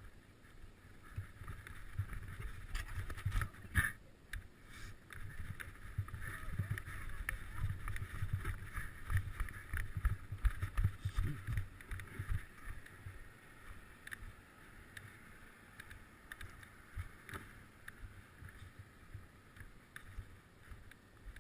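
Wind buffeting the microphone, with tyre and road noise from a bicycle riding fast downhill, growing louder over the first ten seconds and then easing off. A sharp knock about four seconds in.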